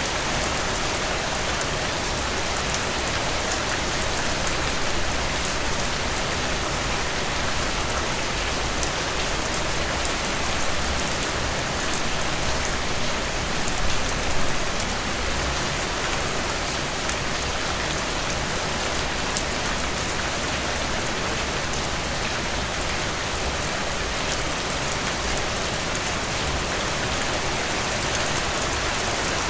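Steady rainfall pattering on a surface, a dense hiss of drops with individual drop ticks heard through it and a brief swell about 14 seconds in. No thunder.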